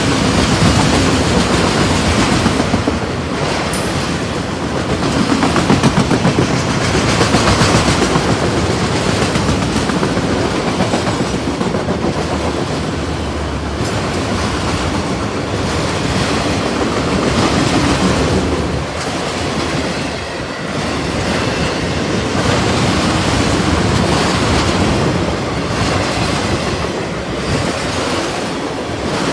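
Train passing close by, its cars rolling steadily with wheels clacking over rail joints, the noise swelling and easing as the cars go by.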